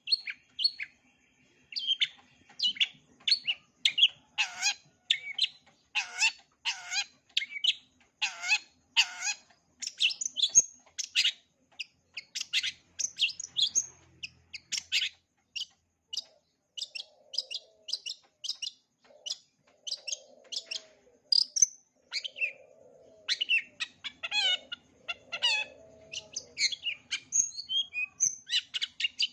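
Long-tailed shrike (cendet) singing a fast, varied song of short chirps and whistles, full of mimicked phrases of other birds. Between about four and nine seconds in, several notes drop steeply in pitch, and lower warbling phrases come in during the second half.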